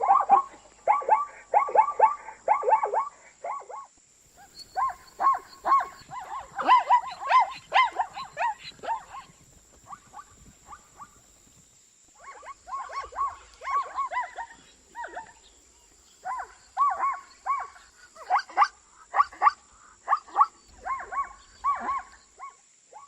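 Zebra calling in bouts of rapid, repeated bark-like yelps, about four or five a second, with short pauses between bouts.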